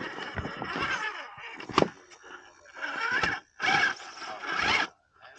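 Radio-controlled rock crawler's electric motor and gear train whining in several short bursts of throttle with brief pauses, and a sharp click about two seconds in.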